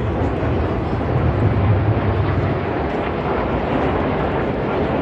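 Aircraft engine noise overhead, a steady rumble.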